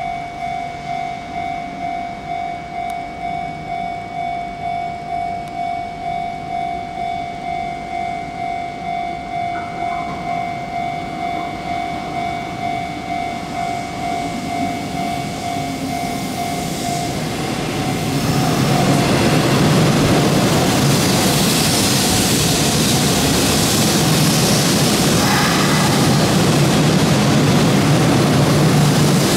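An electronic warning bell rings in a steady pulse, about two beats a second, until about seventeen seconds in. Then a Hanshin 8000-series electric train pulls in close alongside the platform, and its running noise swells loud and stays loud.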